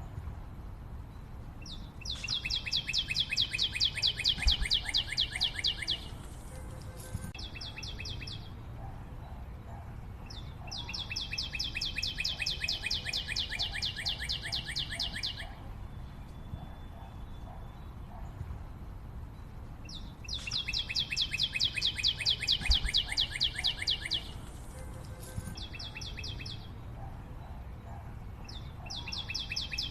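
A bird's long, rapid trill of evenly spaced high notes, each lasting about four seconds and repeated every nine or ten seconds, with a shorter trill in between, over a low background rumble.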